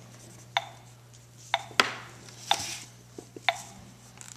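Sharp clicks at an even pace of about one a second, with one louder knock a little before the middle, over a low steady hum.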